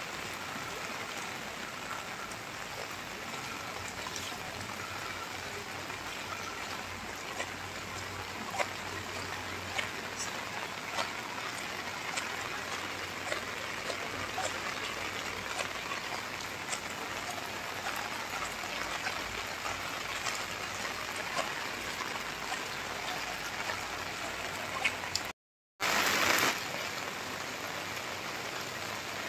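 Steady rain falling, with scattered sharp ticks of individual drops striking a surface. About 25 seconds in, the sound cuts out for half a second, then returns with a brief louder rush of noise before settling back to the steady rain.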